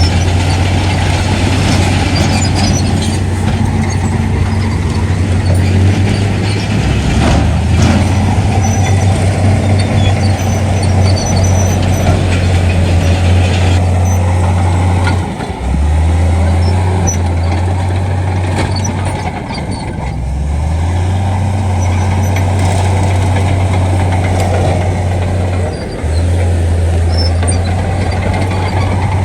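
Heavy diesel construction machinery running loudly with a deep, steady engine drone. The drone briefly drops and shifts in pitch about 15 seconds in, eases lower around 20 seconds and dips again near 26 seconds, as the machine changes load. A single sharp knock comes about seven and a half seconds in.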